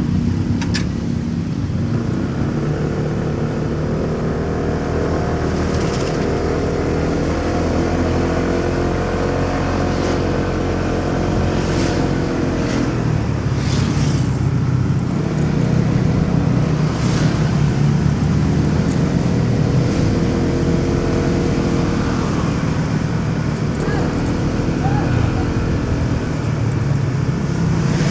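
Motorcycle engine running under way in city traffic, its pitch rising and falling as it speeds up and slows down, over road rumble and wind noise, with a few sharp clicks.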